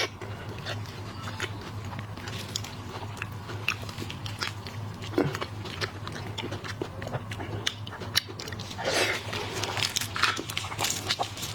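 Close-miked mukbang eating of shrimp and crab: irregular wet chewing, biting and crunching with small clicks, and a longer, denser crunch about nine seconds in.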